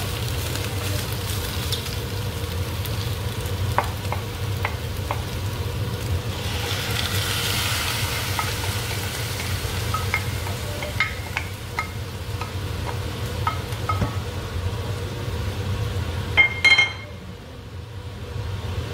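Chicken livers frying in a pot and being stirred with a wooden spatula, a steady sizzle over a low hum, with scattered sharp taps and scrapes of the spatula against the pot and a glass dish as fried garlic and onion are scraped in. A few louder knocks come near the end, after which the sound quietens.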